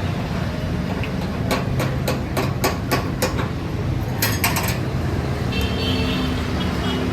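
A hammer striking metal in a quick run of about seven blows, roughly three a second, followed by a short metallic clatter, over a steady low rumble.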